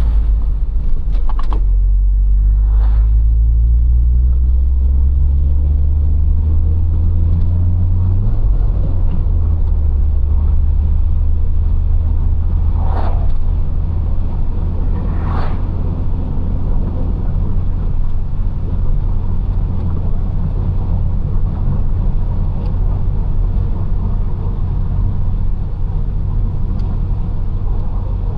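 Citroën XM 2.0 Turbo's four-cylinder turbo engine pulling as the car accelerates, its pitch rising for about eight seconds, then levelling off into a steady cruising drone with road rumble. A few short sharp sounds come through near the middle.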